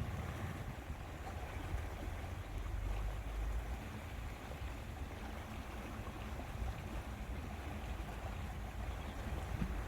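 Steady lakeside ambience: water washing with a low rumble of wind on the microphone.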